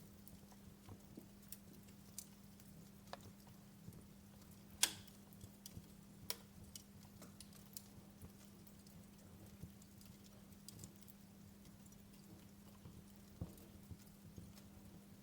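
Wood fire crackling in a fireplace: irregular sharp pops and snaps, the loudest about five seconds in, over a faint steady hum.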